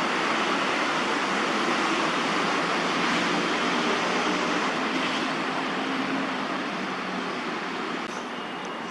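Steady wash of distant road traffic noise, easing slightly toward the end.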